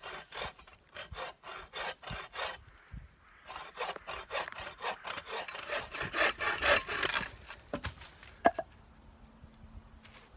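Hand saw cutting through a small green tree trunk in quick back-and-forth strokes. It pauses briefly, then saws again in a longer run and stops. A few knocks follow.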